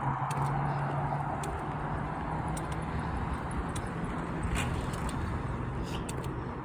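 A vehicle engine running with a steady low hum, with scattered light clicks over it.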